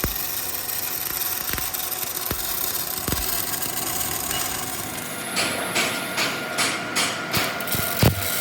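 Workshop machine running steadily, joined about halfway through by a series of sharp knocks, about two a second.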